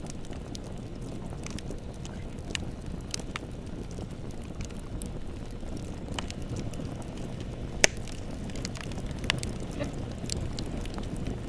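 Bonfire burning with a steady low rumble and scattered crackles and pops of the burning wood, one sharp pop loudest about eight seconds in.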